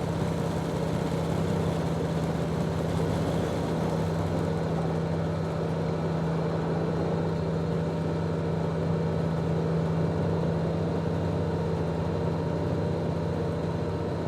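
Helicopter running: a steady drone with a fast, even beat from the rotor.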